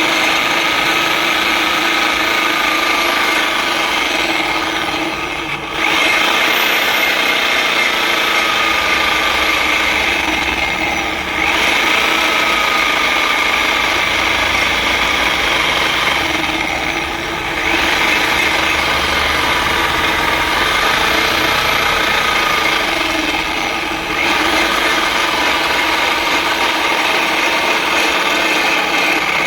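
Electric power tool rigged as an improvised lathe, its motor running with a steady whine while abrasive grinding discs rub against the workpiece. The sound dips briefly four times, about every six seconds.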